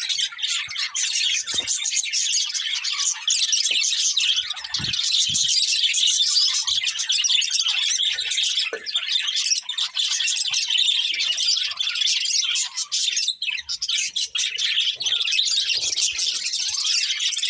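Budgerigars chirping and warbling in continuous, overlapping chatter, with a few soft low knocks a few seconds in.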